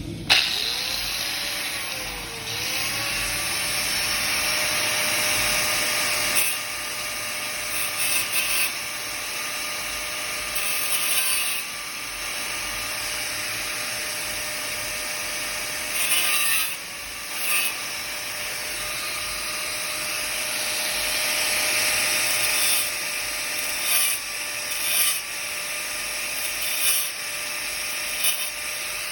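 Handheld electric power tool, drill-like, starting up and running continuously with a steady motor whine. There are brief louder bursts every few seconds, as the tool bites into the work.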